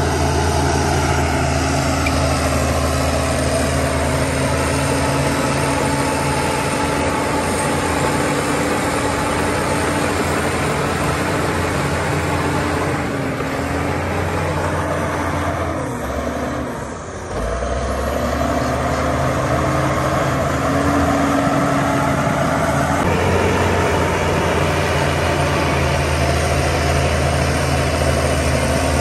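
Heavy diesel engine of earthmoving machinery running steadily under work. Its pitch wavers and it briefly drops in level about sixteen seconds in before settling back to a steady run.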